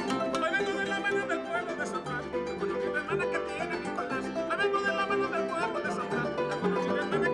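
Instrumental son jarocho from Veracruz: a harp playing a quick plucked melody over strummed jarana and requinto guitars, in a steady, driving rhythm.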